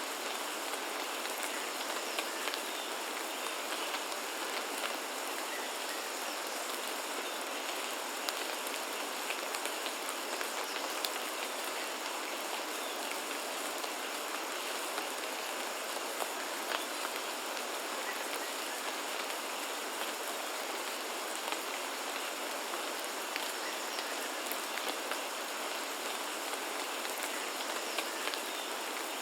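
Steady rainfall, an even hiss with many individual drops landing close by as short, sharp ticks scattered throughout.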